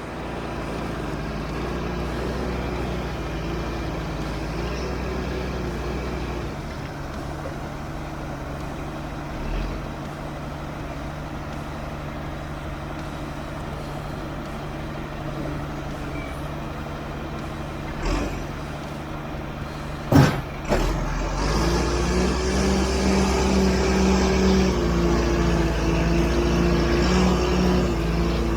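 Backhoe's diesel engine running steadily, with a sharp metal clank about twenty seconds in. After the clank the engine runs louder, its pitch rising and falling in steps.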